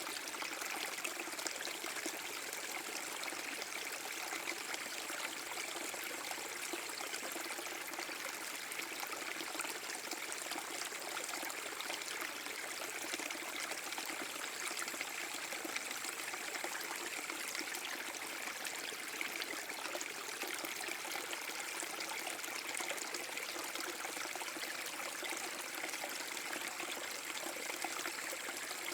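Small waterfall on a forest brook: water splashing and trickling steadily over rocks, a continuous even rush with no changes.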